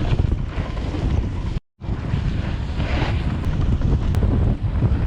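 Wind buffeting the microphone of a camera carried by a snowboarder riding downhill, a steady rumble, cut off completely for a moment about a second and a half in.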